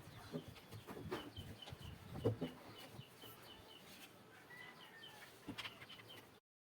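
A bird chirping in quick, even short notes, about four or five a second, with a few knocks of handling in between.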